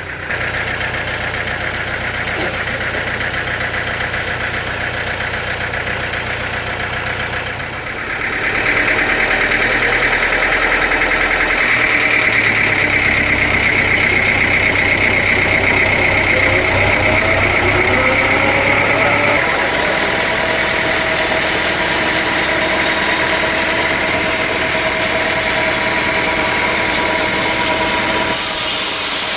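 Engine running steadily at a sawmill. It gets louder about eight seconds in, with a steady high whine over the rumble, and eases back a little later on.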